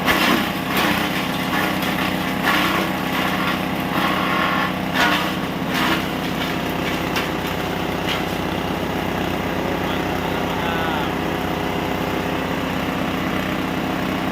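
Livestock feed chopping machine running steadily, with several louder bursts in the first six seconds as material goes through the blades, then running on evenly.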